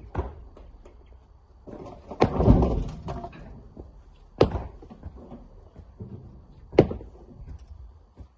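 Rock impacts: sharp, heavy knocks about every two seconds, the second one running into a longer clatter of about a second.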